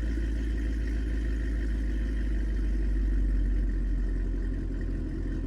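Chevrolet Camaro ZL1's supercharged 6.2-litre V8 running at a steady idle through its exhaust, deep and even.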